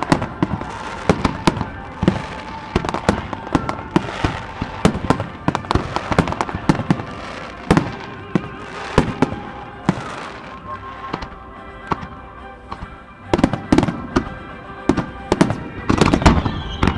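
Fireworks finale: aerial shells bursting in quick succession, several bangs a second, thinning out briefly past the middle before a dense barrage near the end, with music playing underneath.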